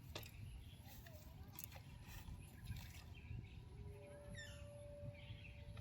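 Faint outdoor ambience with a low rumble, like wind on the microphone, and a few light clicks; about four seconds in, a bird gives a short call of quick notes falling in pitch.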